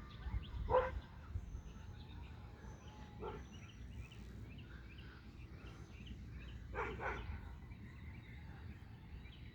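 Faint backyard ambience: small birds chirping softly, with three short, louder animal calls about a second in, at three seconds and near seven seconds, over a low rumble on the microphone.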